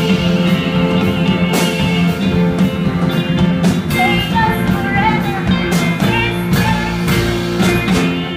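Live rock band playing the closing bars of a song, with steady chords, drum hits and a singer's wavering held notes; the music stops at the very end.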